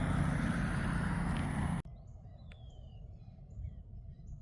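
A steady low hum that cuts off abruptly about two seconds in, giving way to quiet outdoor sound. Wild birds are calling in it: short high chirps repeating under a second apart and an occasional falling whistle.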